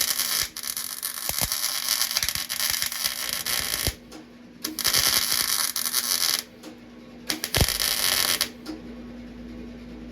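MIG welder laying rosette (plug) welds in car-body sheet steel: three bursts of crackling arc, the first about four seconds long, the second about two and the last about one, with a steady low hum in the pauses between.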